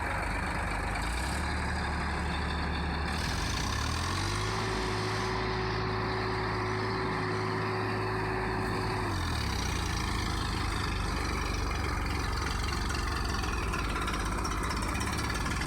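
Massey Ferguson tractor's diesel engine revving under heavy load as it climbs out of a deep pit. The revs rise about four seconds in, hold high for about five seconds, then drop back.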